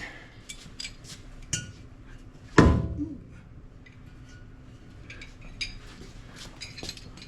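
Metal hand tools and sockets clinking and clattering, with one heavy metallic clank about two and a half seconds in and lighter clicks later on.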